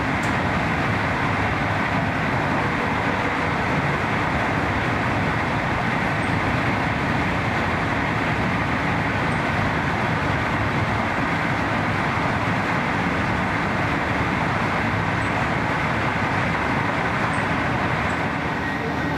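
Steady rush of wind and rolling wheel noise from a passenger train at high speed, heard close behind its class 112.1 electric locomotive.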